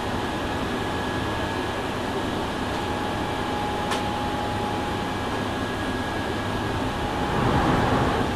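Steady interior running sound of a Hankyu 7000 series electric train: a constant rumble with a faint steady whine. There is a brief swell in the noise near the end.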